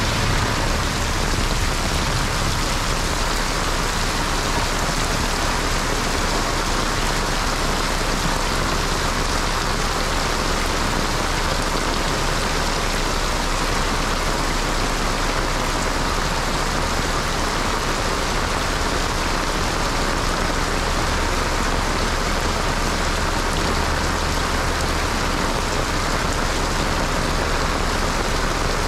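Heavy wind-driven monsoon rain pouring onto a paved street: a steady, even hiss that neither swells nor fades.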